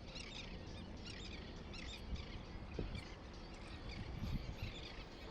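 Birds chirping repeatedly in short high calls over a steady low rumble of wind on the microphone.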